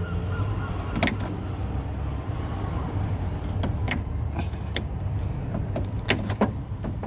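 Wire cutters snipping wire with a few short sharp clicks, one about a second in, another near the middle and a quick group of three near the end, over a low steady rumble.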